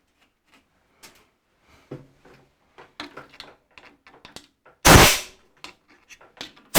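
Light metal clicks and clinks of tools being handled, then a loud short blast of compressed air about five seconds in and another starting at the very end, blowing metal chips out of a freshly tapped hole.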